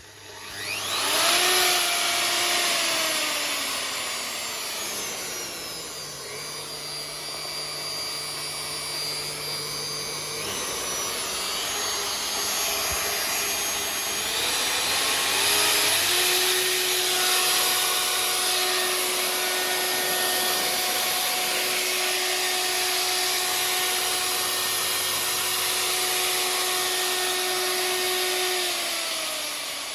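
Makita RP2300FC plunge router running free with no cut, its motor whine speeding up at the start. The pitch then drops and holds at a lower speed for several seconds, rises again about halfway through and holds steady, and falls near the end.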